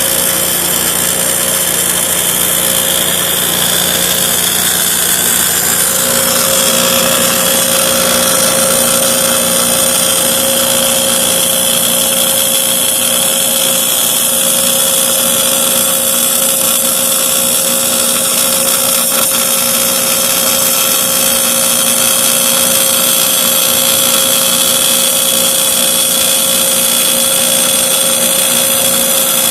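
Portable line boring machine running steadily, its motor turning the boring bar through the loader's bore, with a constant whine over a dense hiss.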